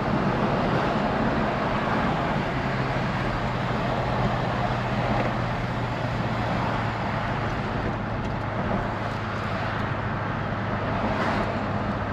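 A 1978 Lincoln Continental Mark V cruising at speed: steady tyre, road and wind noise with an even, low engine hum underneath.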